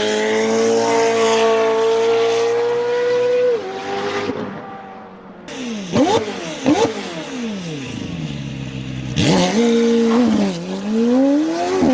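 McLaren Senna's twin-turbo V8 revving: a high steady note at first, then two quick rev blips about six and seven seconds in, a long falling pitch, and another climb near the end.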